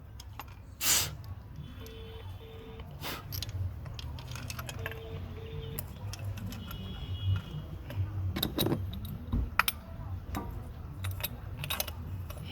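Metal jangling and clinking with sharp clicks scattered throughout, over a steady low hum. A short double beep sounds twice, a few seconds apart.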